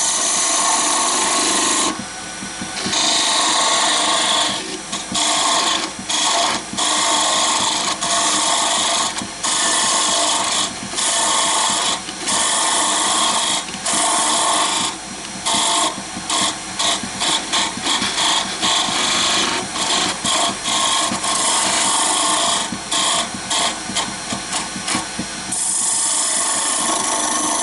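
Wood lathe running while a turning tool takes a heavy cut into the spinning wooden blank, reducing its diameter: a continuous loud cutting hiss broken by many brief gaps.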